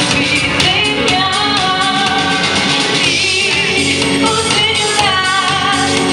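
A woman singing over a backing track with a steady beat, her held notes wavering with vibrato about three seconds in.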